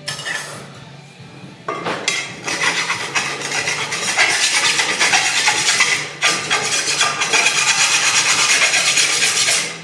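A tool cutting into metal, heard as a continuous rasping noise. It starts about two seconds in and runs on, with brief dips near four and six seconds.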